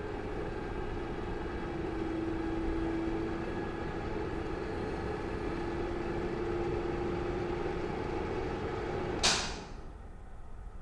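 Bathroom exhaust fan running with a steady hum, then a sharp switch click about nine seconds in as it is turned off, after which the hum winds down and fades.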